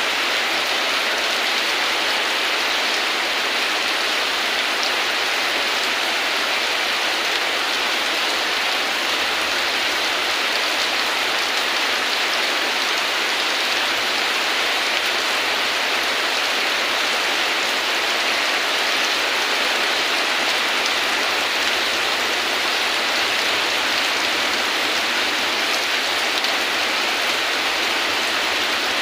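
Steady heavy rain, an even hiss of many drops falling without a break.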